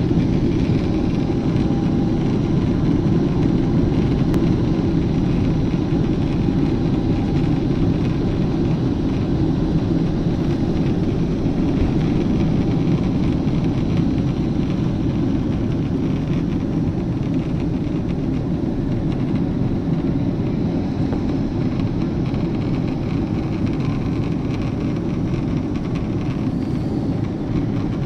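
Jet airliner cabin noise during takeoff: the steady low rumble of the engines and rushing air, easing slightly over time.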